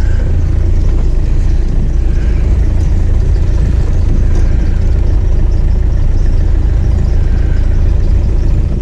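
Car on the move: engine and road noise make a loud, steady low rumble.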